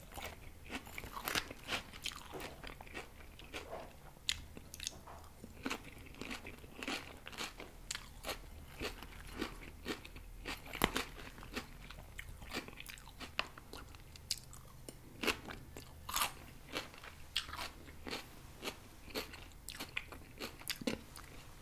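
Close-miked chewing of crisp raw salad (cabbage and lettuce), with wet crunches and mouth clicks coming several times a second at an uneven pace.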